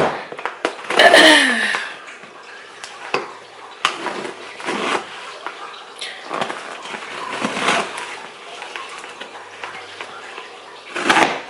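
A cardboard shipping package being opened by hand: scattered bursts of tearing and rustling packaging, with a louder rip-like burst near the end.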